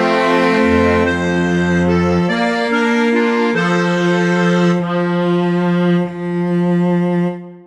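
Bandoneon and cello playing a waltz, ending on a long held chord that stops shortly before the end.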